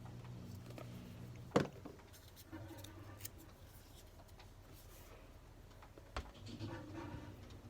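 Quiet handling of paper pieces being glued down: faint rustles and small ticks, with one sharp tap about one and a half seconds in.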